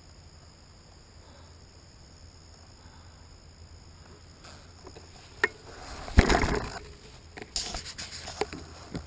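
Crickets chirping steadily in a hush. From about halfway through come a sharp click, then scraping, rustling and crackling noises close to the microphone, loudest just after the click, with more clicks near the end.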